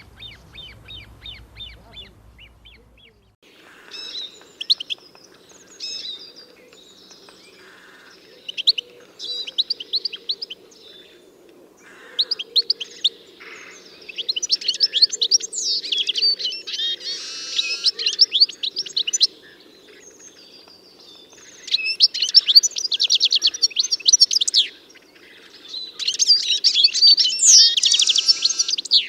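Songbirds singing: fast runs of high chirps and trills in bursts of a few seconds, growing louder and denser in the second half.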